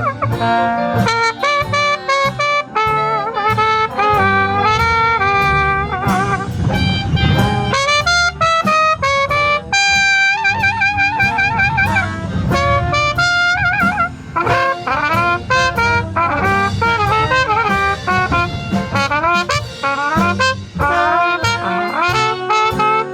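A live blues band plays an instrumental passage. A wind-instrument lead plays a melody with vibrato over bass and drums.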